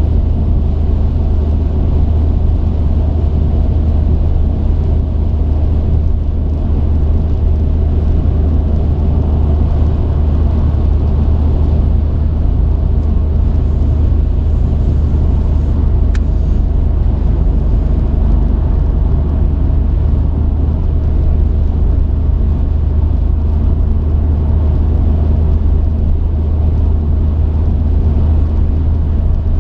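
Truck driving at a steady pace: a constant low engine and road rumble.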